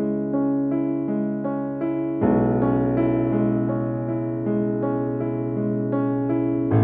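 Korg C1 Air digital piano playing its sampled grand piano voice: a flowing broken-chord passage of evenly spaced notes over held bass notes, with a new, louder bass chord about two seconds in and again near the end.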